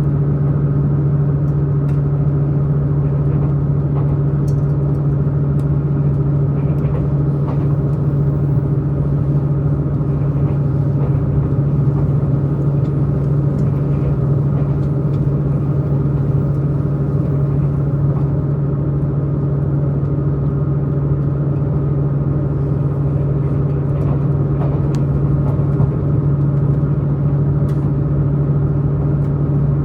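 Diesel multiple unit express train's underfloor diesel engine running steadily at a constant pitch as the train travels, heard from inside the passenger car, with a few faint clicks over the running.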